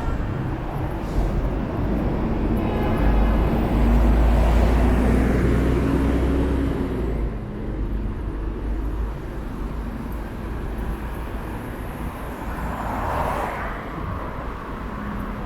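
City street traffic: a heavy vehicle passes close by with a deep rumble that builds about three seconds in and fades after about seven, then another vehicle goes by more softly near the end.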